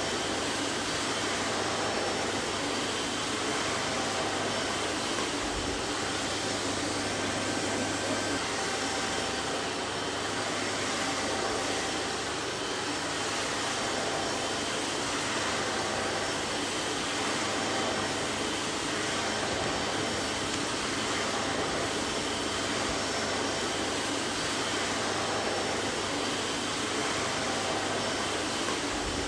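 Vacuum cleaner running steadily: a constant, even rushing whoosh with a faint whine.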